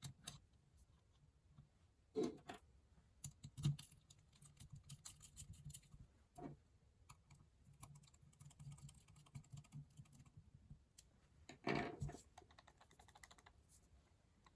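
Irregular light clicks and taps with a few louder knocks, from the small metal parts of a hand coffee grinder being handled during a screw replacement.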